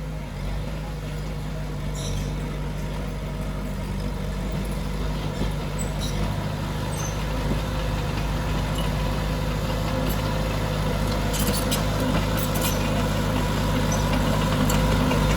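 Heavy diesel engine of earthmoving machinery running steadily, growing gradually louder, with a few faint metallic ticks in the second half.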